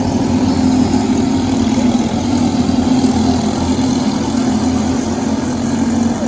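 Briggs & Stratton LO206 single-cylinder four-stroke kart engine running at a steady, fairly constant pitch.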